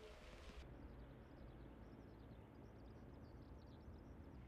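Near silence: faint scattered bird chirps over a low rumble. A steady hiss cuts off suddenly under a second in.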